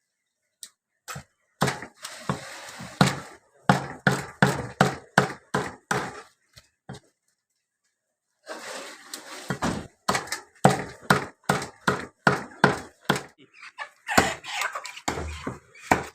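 Cleaver chopping chicken into pieces: a run of sharp chops, about two or three a second, with a pause of about a second and a half midway.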